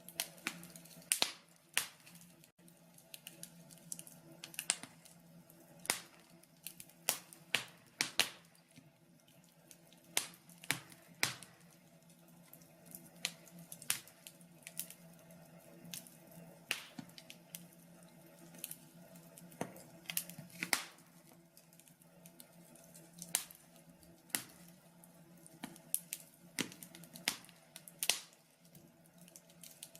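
Wood fire in a log burner crackling, with sharp irregular pops and snaps about once or twice a second, over a faint steady low hum.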